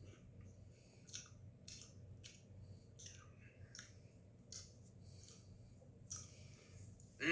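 Faint chewing of a mouthful of Pringles Mingles puffed cheddar-and-ranch snacks: a string of soft, irregular crunches about every half second to a second.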